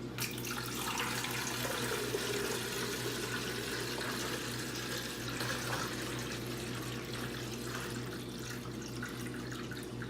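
Water pouring steadily into the water reservoir of a Keurig K-Elite coffee maker, filling it so the brewer stops asking for water.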